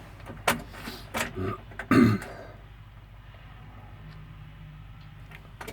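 A man clearing his throat a few times, the last and loudest about two seconds in, followed by a faint steady low hum.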